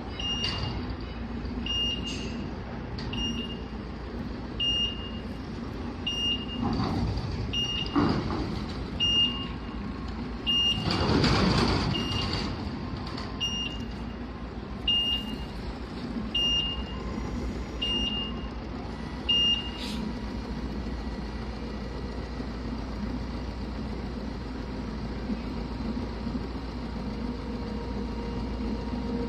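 Reversing beeper of a TOSH CPD10 1-ton electric forklift, one high beep about every second and a half, stopping about twenty seconds in, over a steady low hum from the truck. A louder rushing hiss comes about eleven seconds in.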